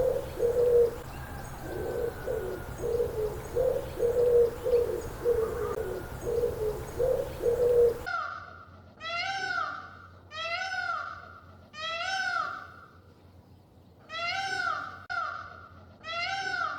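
A bird cooing in repeated low phrases. About halfway through, after an abrupt change, a different animal gives a series of short, rising-and-falling cries, about ten of them.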